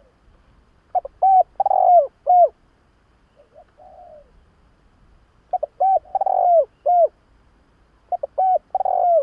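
Spotted dove cooing: three repeated phrases of short coos built around one longer middle note, with a faint single coo between the first two phrases.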